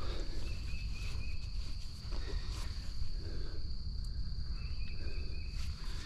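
Steady high-pitched insect buzz, cricket-like, over a low rumble, with two short high trills about four seconds apart.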